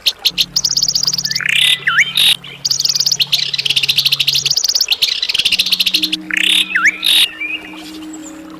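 Songbirds singing: fast, high, rattling trills repeated again and again, broken twice by a sharp swooping whistle, over a low steady hum. The singing stops about three-quarters of the way through, leaving a quieter background.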